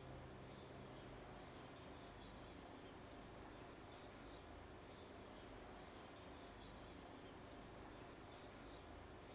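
Faint birdsong: small groups of short, high chirps every second or two over a steady faint hiss.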